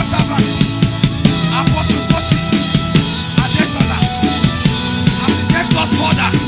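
Band music in a church service, driven by a drum kit playing a quick, steady beat with bass drum and snare, over a bass line and steady sustained instrument tones.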